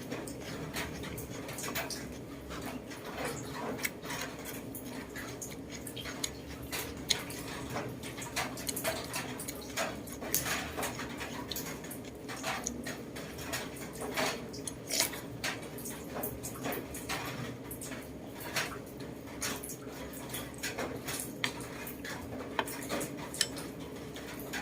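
Irregular small clicks and clinks of utensils against dishes, over a steady low hum.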